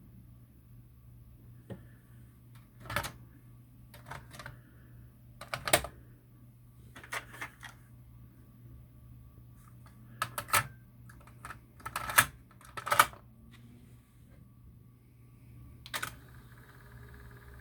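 Sony TC-WR11ES cassette deck's transport mechanism clicking and clunking as its keys are pressed and the mechanism changes mode: a series of separate sharp clicks, some in quick pairs, spaced irregularly, over a low steady hum.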